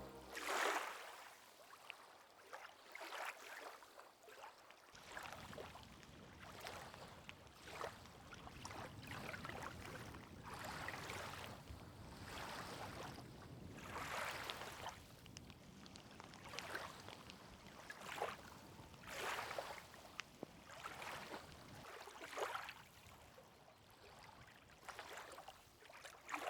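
Water lapping and splashing in small irregular surges every second or two.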